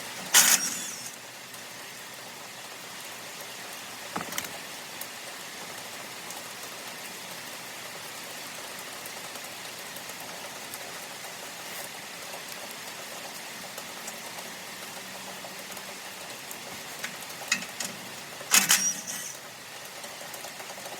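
A few sharp metallic clanks and knocks of hand tools loosening the bolts under a round baler's pickup, a loud one about half a second in, a lighter one about four seconds in, and a cluster near the end, over a steady hiss of rain.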